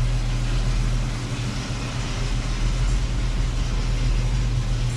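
Pontiac GTO's engine idling steadily, an even low hum.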